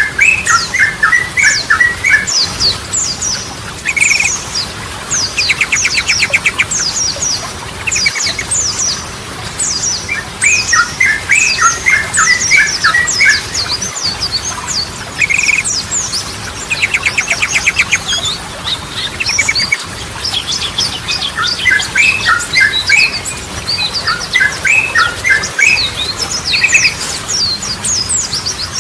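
Yellow-vented bulbul singing: bubbly phrases of quick, liquid notes, a few fast buzzy trills, and thin high chirps throughout, the song coming round again about every six seconds.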